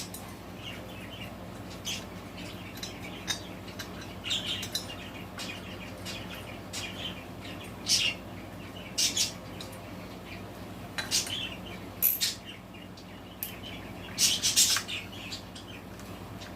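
Pet budgies chirping now and then, mixed with short metallic clinks of tools on the engine, over a low steady hum.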